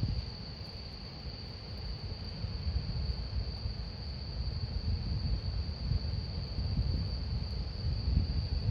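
Campfire with a steady, unbroken high-pitched singing tone over a low, fluctuating rumble of the burning wood. The uploader hears the tone as the flames singing.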